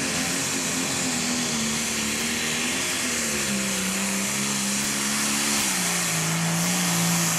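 Turbocharged diesel engine of a 10,000 lb pro stock pulling tractor running wide open under full load as it drags the sled down the track, with a loud hiss above it. Its pitch drops twice, about halfway through and again near the end, as the sled bogs it down.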